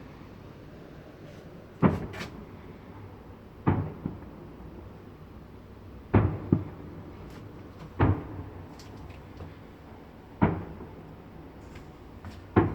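Fireworks salute shells bursting in a series of booms, about one every two seconds, six in all, each dying away in a short echo and some followed by a smaller crack.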